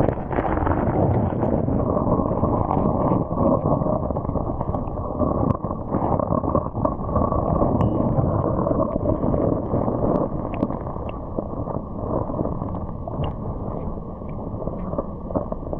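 Mountain stream rushing steadily over rocks, heard muffled, with a few faint clicks.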